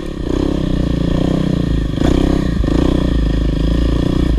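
Single-cylinder four-stroke dirt bike engine pulling at low throttle, its pitch rising and falling a little as the bike climbs up a trail obstacle. There is a short knock about two seconds in.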